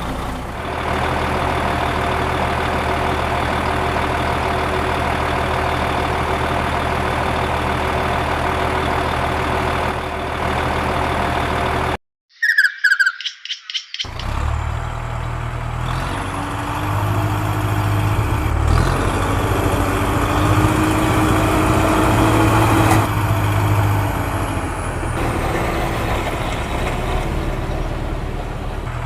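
Heavy diesel engine of a JCB backhoe loader running steadily while loading sand into a truck. About twelve seconds in the sound drops out briefly with a short high chirping sound, then the engine comes back with its pitch rising and falling as it works under load.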